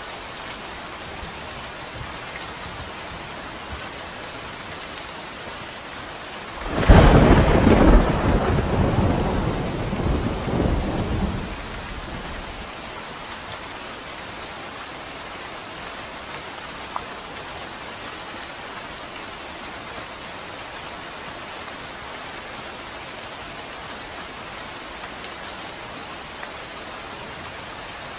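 Steady rain falling, with a loud thunderclap about a quarter of the way in that cracks sharply and then rumbles for several seconds before fading back into the rain.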